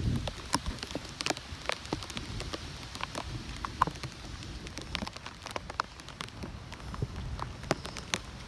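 Rain from a tropical-storm squall, with irregular sharp taps of drops striking close to the microphone over a low wind rumble.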